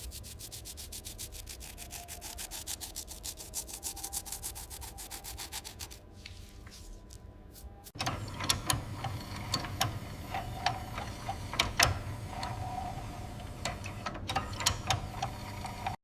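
Hand scrubbing of grimy metal in rapid, even strokes. About halfway through it cuts abruptly to a heavier rubbing with scattered sharp clicks and knocks.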